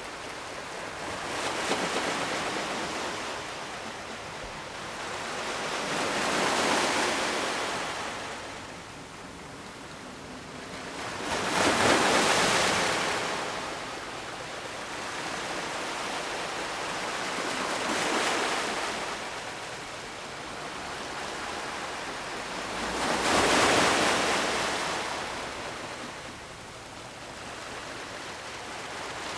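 Ocean waves breaking and washing up on a shore, coming in slow surges about every five or six seconds, with the loudest breaks about halfway through and near the end.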